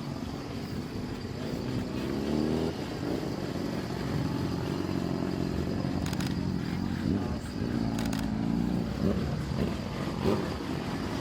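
Vehicle engines running at a car meet, revved now and then so the pitch rises and falls. A couple of short, sharp clicks sound around the middle.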